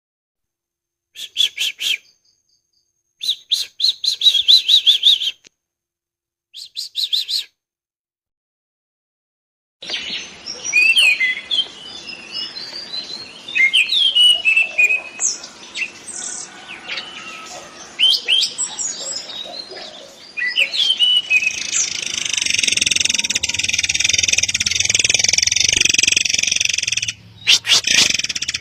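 Edited recordings of murai air birdsong for song training and lure calls. It opens with three short bursts of rapid high chirping separated by dead silence. From about ten seconds in, a busier recording brings many chirps and whistles over background noise, and from about twenty seconds this becomes a dense, continuous high trill.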